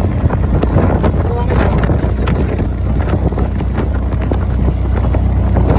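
CNG auto rickshaw driving along, its engine a steady low rumble with rattling and wind buffeting the microphone.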